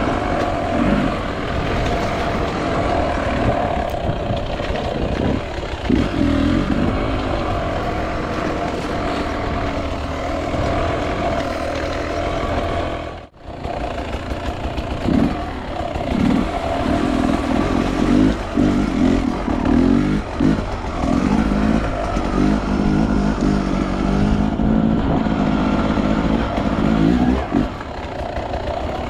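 Two-stroke enduro motorcycle engine running off-road, with repeated short throttle blips and revs in the second half. The sound drops out briefly about halfway through.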